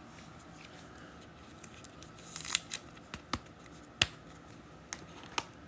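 Trading cards and their plastic sleeves handled on a table: a few sharp, scattered clicks and taps, the loudest about four seconds in.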